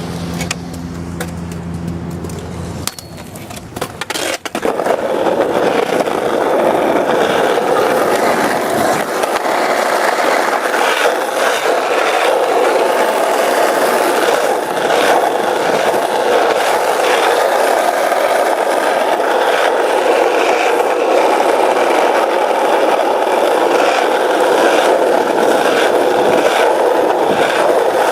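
Small hard wheels rolling steadily over rough pavement: a continuous gritty rolling noise with scattered ticks from cracks and grit, starting about four seconds in. A low steady hum comes before it.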